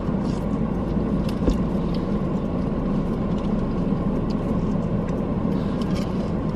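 Steady hum of a car's idling engine and air-conditioning blower, heard from inside the cabin, with a few faint clicks.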